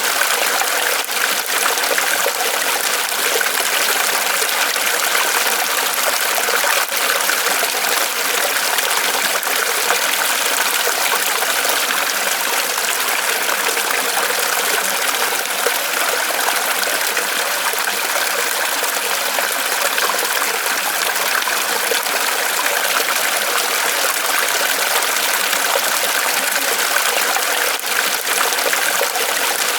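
Small waterfall trickling and splashing steadily as water runs off a tree trunk.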